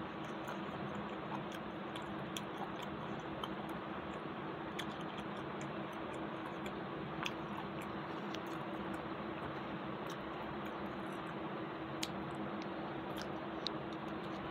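A person chewing food while eating rice and curry by hand, with scattered soft mouth clicks over a steady background hiss and a faint low hum.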